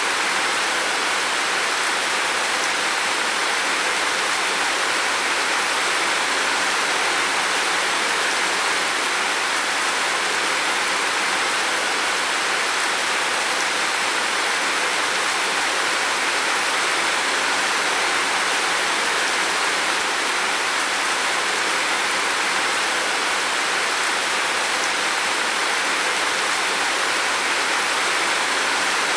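Heavy rain drumming steadily on a roof, a dense unbroken hiss with no let-up.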